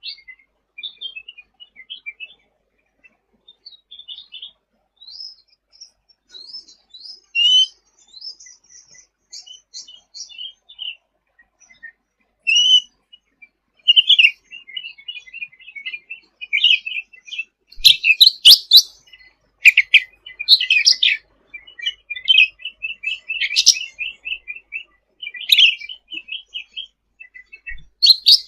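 Cucak ranting songbird singing vigorously: fast, high chattering and twittering notes throughout, with louder, sharp calls coming in bunches in the second half.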